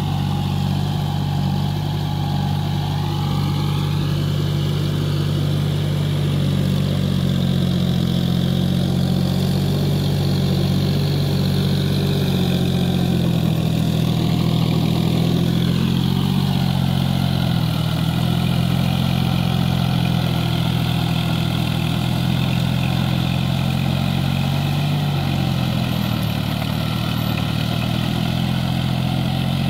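John Deere 5045D tractor's three-cylinder diesel engine running steadily, its pitch shifting slightly a couple of times.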